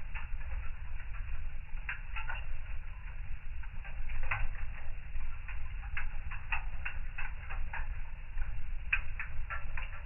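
Wood fire crackling in a fireplace: irregular sharp pops and snaps, some in quick clusters, over a steady low rumble of the flames.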